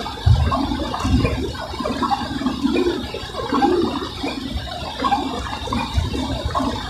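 Car interior on a wet drive: a continuous watery rush of tyres on a rain-soaked road and rain on the car, with uneven low rumbles.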